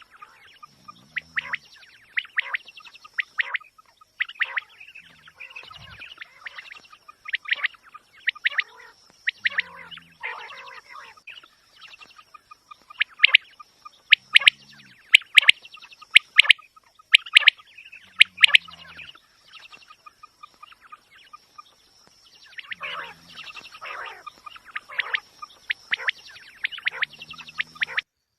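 Quail calling: groups of sharp, rapid notes repeated every few seconds, with a low note recurring about every four seconds and a faint steady high tone underneath.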